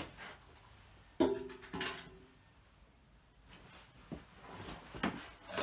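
Metal parts clanking during engine teardown: a sharp clank about a second in that rings briefly, a second clank soon after, then lighter handling knocks and another ringing clank at the end.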